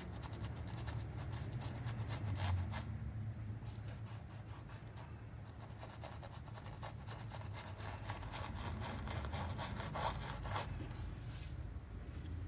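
Paintbrush scrubbing and dabbing against the painting surface in runs of short, quick, scratchy strokes.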